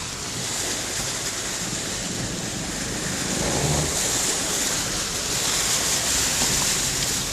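Heavy rain falling, a steady rushing hiss that grows a little louder about halfway through.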